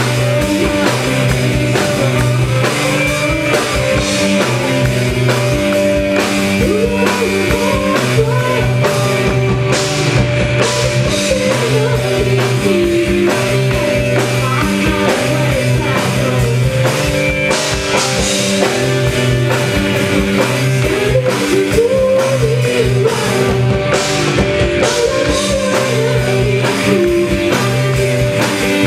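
A rock band playing live, with a steady drum kit, a repeating bass line, keyboard or piano, and a singing voice.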